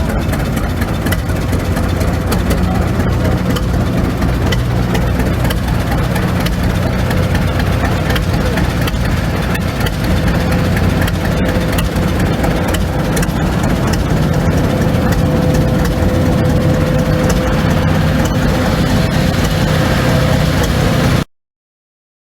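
An engine running steadily and loudly, with a thin steady whine over a low drone; it cuts off abruptly near the end.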